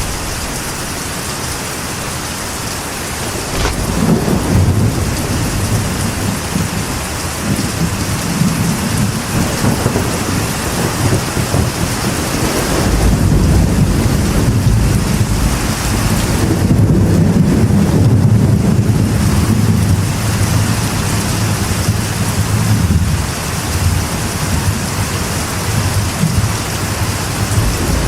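Steady rain falling on a metal roof, with thunder rumbling low underneath. The rumbling starts a few seconds in and swells loudest just past the middle.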